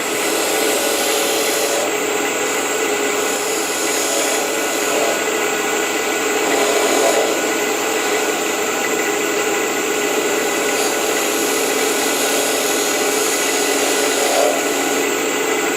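Wood lathe running while a small purpose-made cutting tool is pushed into the spinning blackheart sassafras lid, scraping out a shallow recess for an inlay. A steady motor hum with a continuous rasping cut throughout.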